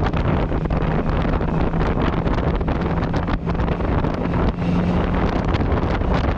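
Yamaha MT-09 Tracer three-cylinder engine running at steady speed through an Akrapovič exhaust while riding, heard with heavy wind noise on the microphone. The engine sound dips briefly twice, about three and a half and four and a half seconds in.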